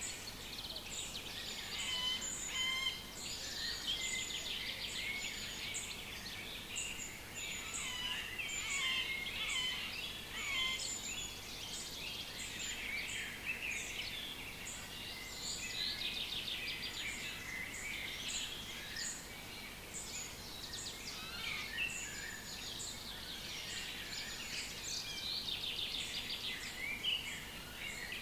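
Several wild birds singing at once, their overlapping chirps, trills and warbles running continuously, over a thin high note that repeats about twice a second.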